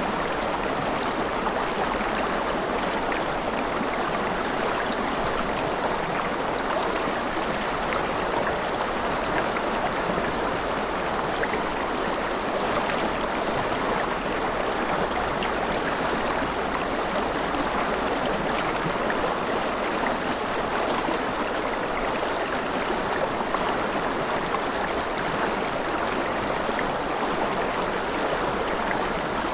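River water flowing and splashing steadily: a constant close rush with fine gurgling texture, no distinct events.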